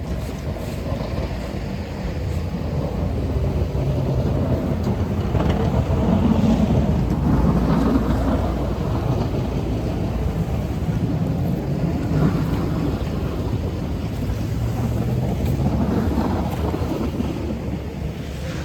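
Storm wind buffeting the microphone: a low rushing noise that swells and eases in gusts.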